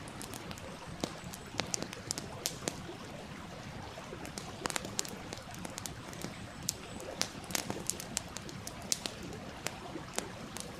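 Wood campfire crackling, with frequent sharp pops at irregular intervals over the steady wash of a flowing stream.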